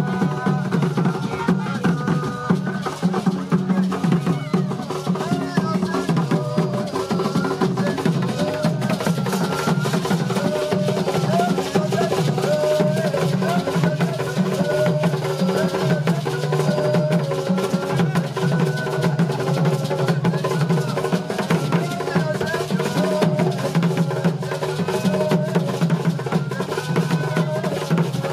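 Music with dense, continuous drumming and percussion, and a wavering melody line above it.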